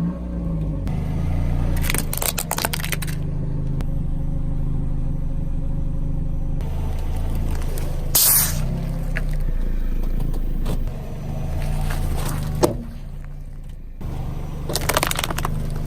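Car engine running at low speed, with several short bursts of crunching and cracking as objects are crushed under its tyres.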